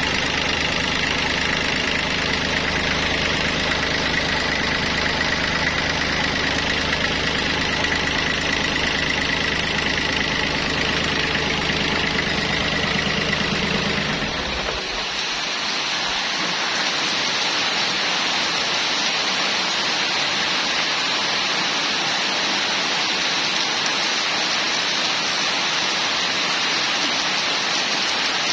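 An engine runs steadily at idle, then shuts off about halfway through. A steady hiss goes on underneath and continues alone after the engine stops.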